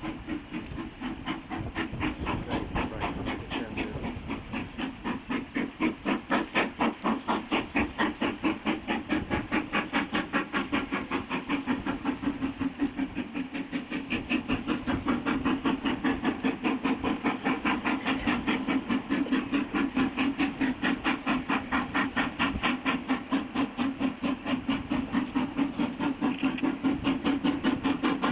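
Steam locomotive working under load, its exhaust beats coming in a fast, even rhythm with a steady low hum underneath. The beats grow stronger after about five seconds.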